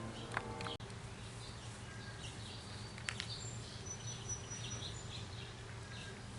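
Small birds chirping over a steady low hum, with a couple of sharp clicks about three seconds in.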